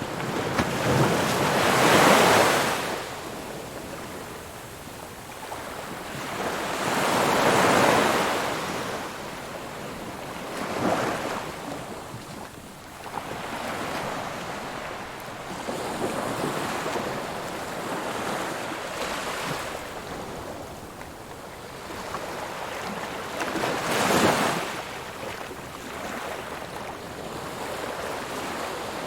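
Ocean surf: waves breaking on a shore, a few seconds apart, with a steady wash between. The loudest breaks come about two seconds in, near eight seconds, and again near twenty-four seconds.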